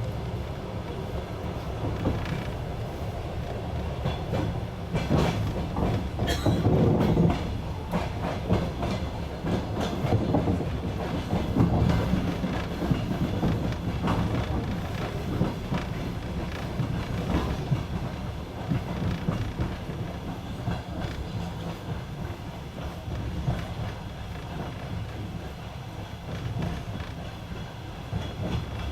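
Passenger train wheels clattering over rail joints, heard from inside a moving carriage, over a steady low rumble. The clacks come thicker and louder between about five and eight seconds in and again about twelve seconds in.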